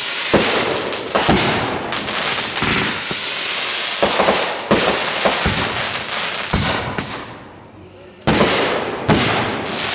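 Fireworks going off: a rapid run of sharp bangs over steady crackling, dying down about seven seconds in before fresh bangs start again.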